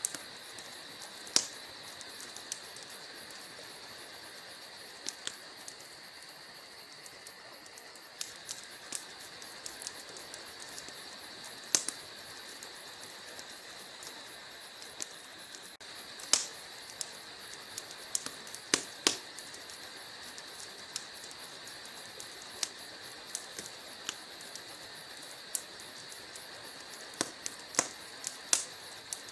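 Wood fire crackling in a fireplace: burning logs giving off irregular sharp pops and snaps, a handful of them loud, over a steady hiss.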